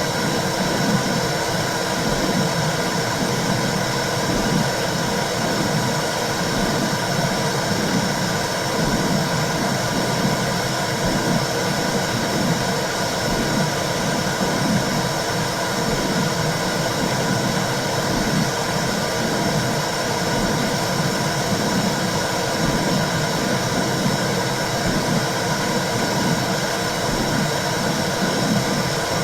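Womb sound for calming babies: a steady low whooshing hiss that swells in a regular pulse about once a second, like a heartbeat heard through the body.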